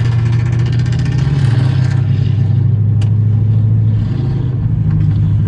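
Dodge Charger R/T's 5.7-litre HEMI V8 and exhaust under way at highway speed, heard from inside the cabin. A loud, steady drone whose pitch dips a little about a second in and rises again near the end, with one sharp click about three seconds in.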